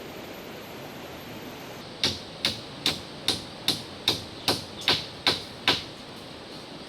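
A hammer strikes ten times in quick, even succession, about two and a half blows a second, each a sharp ringing knock, as if driving a nail into timber. A steady hiss sits underneath.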